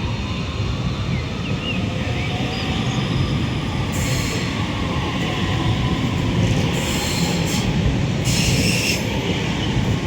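Doubled-up Northern Class 331 electric multiple unit departing, its wheels running steadily on the track with several short bursts of high-pitched wheel noise, about four, seven and eight and a half seconds in.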